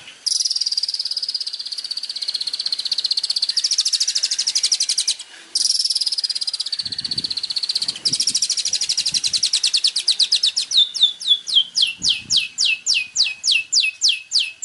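A songbird singing a fast, high-pitched trill that breaks off for a moment about five seconds in and then resumes. About ten seconds in, the song changes to a rapid run of steeply falling whistled notes, about four or five a second.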